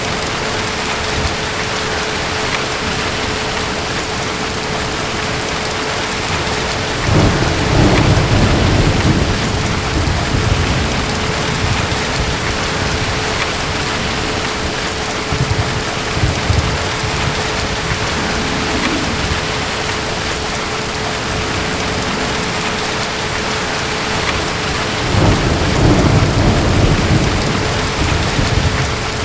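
Steady heavy rain with two low rolls of distant thunder, one about seven seconds in and one near the end.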